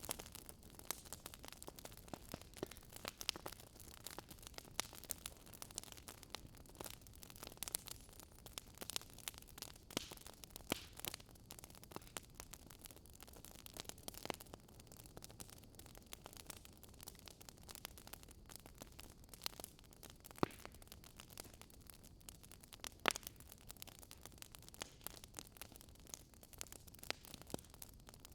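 Wood fire burning in a fireplace: irregular sharp crackles and pops from the burning logs over a soft steady hiss of flame.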